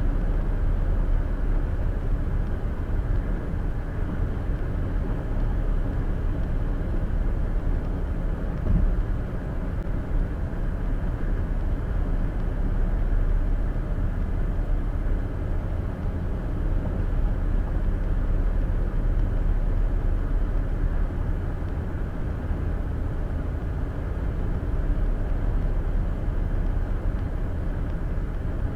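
Steady road and tyre noise with a low engine hum, heard from inside the cabin of a car driving at highway speed, with one short bump about nine seconds in.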